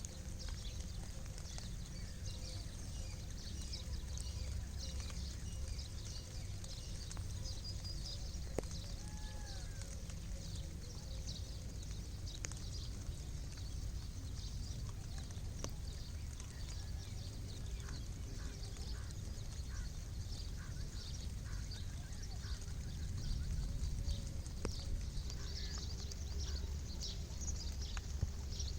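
Outdoor village ambience of animal calls: many short, high chirps throughout, with a few pitched calls and occasional sharp clicks over a steady low rumble.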